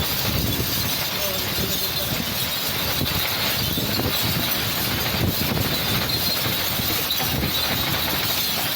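Storm of heavy rain and strong wind: a steady, dense rushing noise that does not let up, with an uneven low rumble of wind on the microphone.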